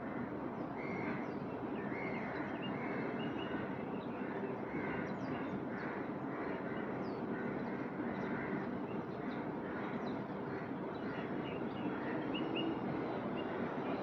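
Birds chirping and calling in many short, quick calls over a steady background hiss of outdoor ambience.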